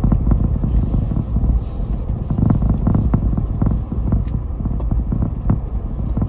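Car driving along a country road: a steady low rumble of tyres and engine, with many small knocks and bumps.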